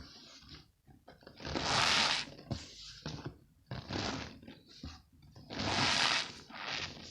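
Balls of packed cornstarch squeezed and crushed by hand, giving a run of crunches. The two longest and loudest come about two seconds in and about six seconds in, with shorter crunches between them.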